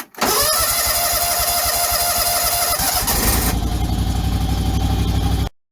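John Deere garden tractor engine starting and running. It catches sharply with a brief rise in pitch, then runs with a steady low firing beat that changes about three seconds in, the higher part dropping away, before it cuts off abruptly near the end.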